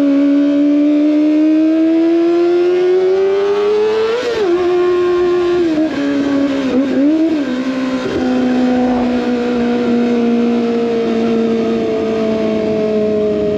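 Kawasaki ZX25R's inline-four engine through an SC Project exhaust, revving high under way. The pitch climbs, drops sharply about four seconds in as it shifts up, wavers with a couple of quick throttle changes, drops again, then slowly falls as the rider eases off.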